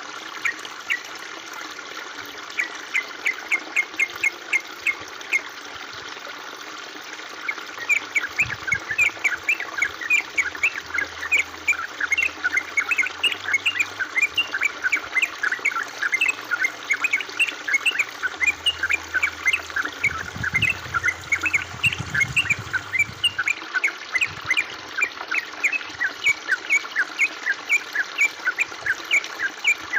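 A bird giving long runs of short, quickly repeated chirps, about three or four a second, over a steady hiss of trickling water.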